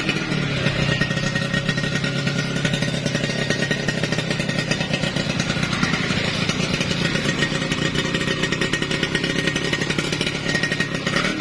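Modified Yamaha F1ZR two-stroke single-cylinder engine running steadily with a throaty exhaust, its bore-up '116' spec tuned for a deep, 'snoring' note.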